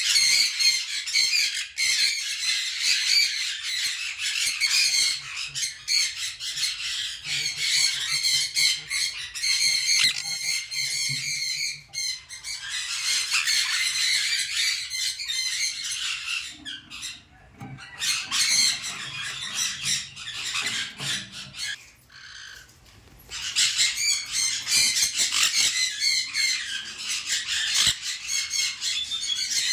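Many birds calling at once, a dense run of quick, high calls that drops away briefly about twenty-two seconds in before resuming.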